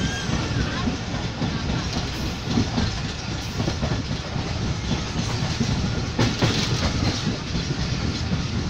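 A moving train heard from inside a carriage: a steady rumble of wheels running on the rails. The rumble gets briefly louder and hissier about six seconds in.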